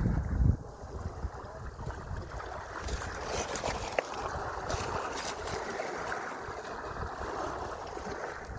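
Sea waves washing, with wind buffeting the microphone in a strong low gust right at the start. A single sharp click about four seconds in.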